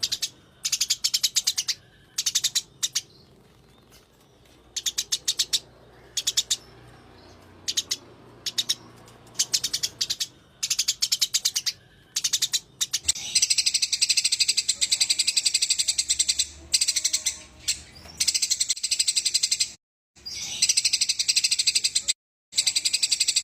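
Eurasian tree sparrows giving fast, rolling fighting chatter: rapid trains of high chirps, in short bursts for the first half, then a dense near-continuous chatter. The sound cuts out abruptly twice near the end.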